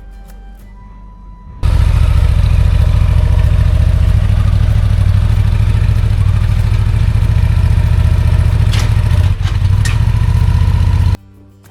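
Background music, then a vehicle engine running steadily and loud, close by. It comes in suddenly about two seconds in and cuts off abruptly near the end.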